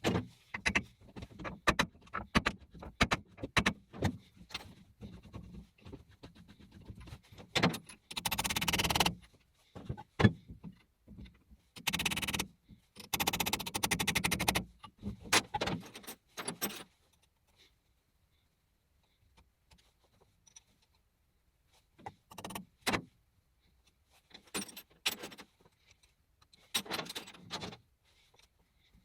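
Metal parts being handled: irregular clinks, knocks and rattles, with a few short scraping stretches in the first half, then sparser bursts of clatter.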